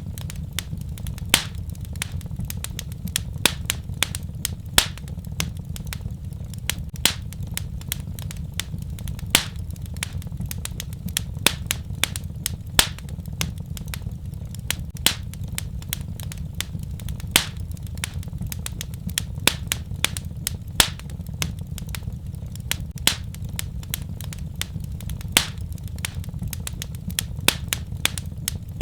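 Wood fire crackling in a fireplace: irregular sharp pops and snaps, several a second and some louder than others, over a steady low rumble of the flames.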